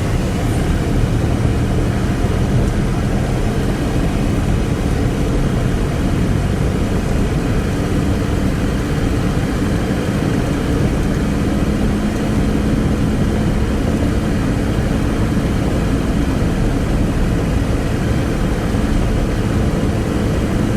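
Steady engine drone and road noise from a moving vehicle, with a low hum that holds throughout.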